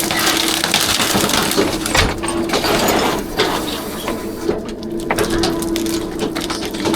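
Rear-loader garbage truck's hydraulic packer compacting trash: a dense crunching, crackling clatter with a few sharp knocks, over a steady hum that fades in and out.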